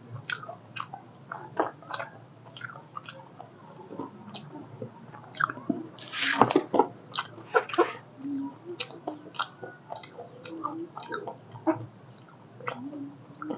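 A man chewing a mouthful of chatpate close to a clip-on microphone: scattered wet mouth clicks and lip smacks, with a louder burst of noise about six seconds in.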